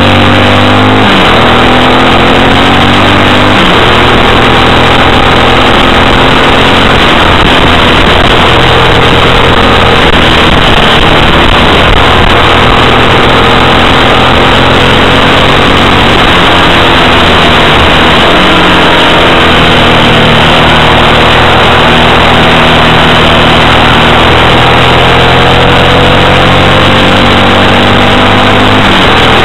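Yamaha XT single-cylinder four-stroke motorcycle engine being ridden hard, its revs climbing and dropping again and again through the gear changes, heard on board at speed over heavy road and air noise.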